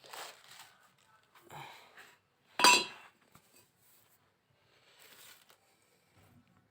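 A few short scrapes and rustles as a fire is lit in a chulha, the loudest a brief sharp burst about two and a half seconds in.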